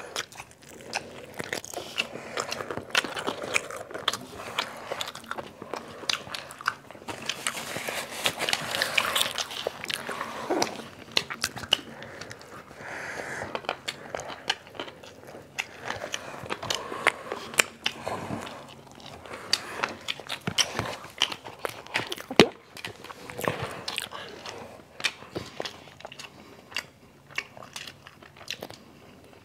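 Two people biting and chewing crispy-battered fried chicken close to a clip-on microphone: a steady run of small, irregular crunches and crackles.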